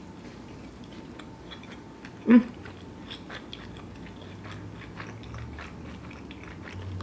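A person chewing a mouthful of sushi bake wrapped in crisp roasted nori, with small crunching clicks throughout. About two seconds in there is one short hummed "mm" of the voice.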